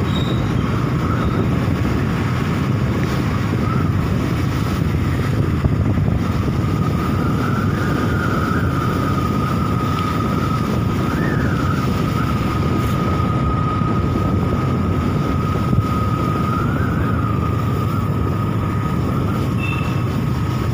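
Steady running of a moving vehicle's engine, with wind buffeting the microphone and a steady high whine that wavers slightly in pitch.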